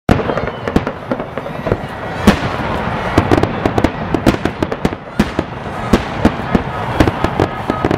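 Aerial fireworks bursting overhead: a dense run of rapid pops and cracks from the spark-filled shells, with a few louder bangs standing out near the start, a little after two seconds, and around four and five seconds.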